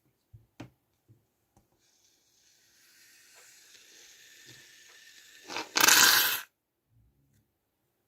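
Aerosol can of shaving foam being dispensed: a soft, steady hiss for a few seconds, then a loud spray blast about six seconds in that stops abruptly. A few faint clicks of handling come before it.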